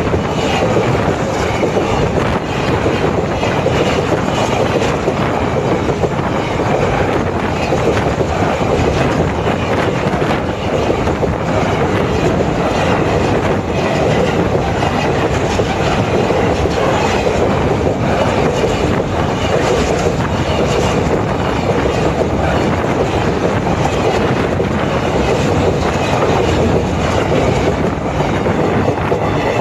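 Steel wheels of container freight wagons rolling over the rails directly above the microphone: a loud, continuous rumble and rattle, broken by repeated knocks as the wheelsets pass over.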